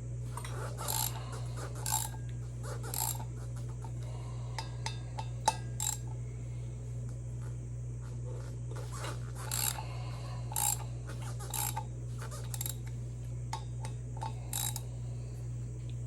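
Hand ratchet clicking in short bursts, about a dozen strokes spread through, as Torx bolts are backed out of a motorcycle rear wheel; the bolts are coming loose easily. A steady low hum runs underneath.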